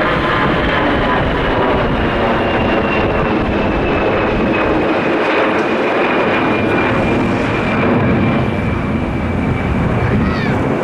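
Airbus A320 jet engines at go-around power as the airliner climbs away, a loud steady rush with a high whine that slowly falls in pitch as it recedes.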